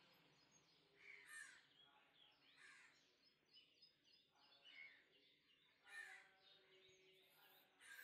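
Faint bird calls: four harsher calls spread through, with strings of small quick chirps between them, over low background hiss.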